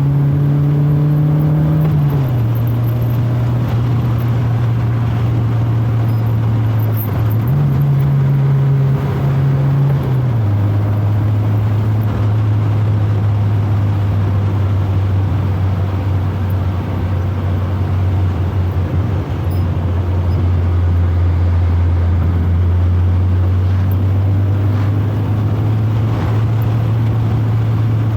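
Proton Wira 1.5's four-cylinder engine running under way with a steady low note. The note steps down about two seconds in, jumps back up about seven seconds in and steps down again about ten seconds in, as with gear changes in its manual gearbox. A steady haze of road and tyre noise runs underneath.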